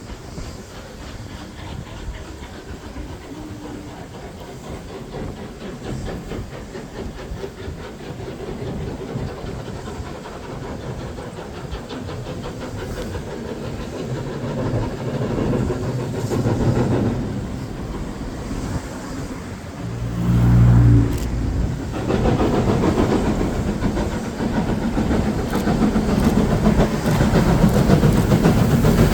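Steam locomotive approaching while working a train, its rapid exhaust beats growing steadily louder. About two-thirds of the way through, a loud low-pitched sound rises over it for a couple of seconds.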